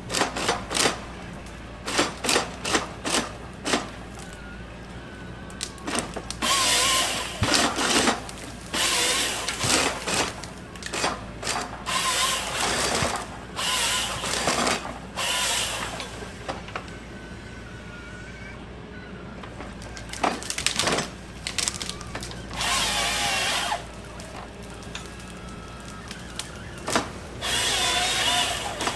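A power tool run in short bursts, starting and stopping over and over, each burst lasting about half a second to a second and a half.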